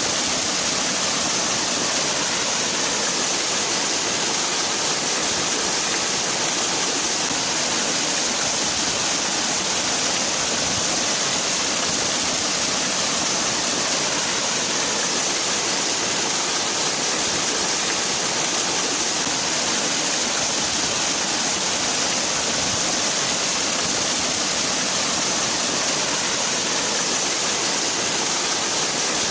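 Waterfall: falling water making a steady, even rushing hiss with no breaks or changes.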